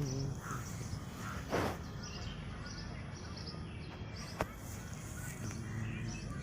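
Outdoor ambience with birds chirping repeatedly, high-pitched, over a steady low hum. A short noisy burst about a second and a half in is the loudest sound, and a sharp click comes about four seconds in.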